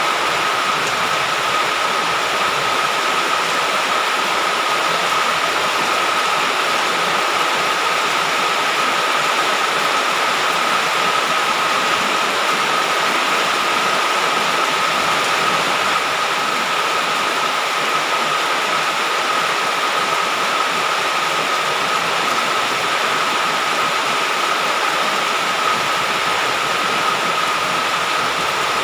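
Heavy rain falling in a steady, even downpour, with a steady high-pitched tone running through it.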